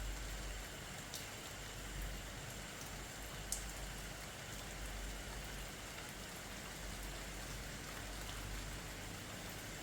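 Steady rain falling, an even hiss with a few sharper individual drops ticking through it, one louder drop about three and a half seconds in.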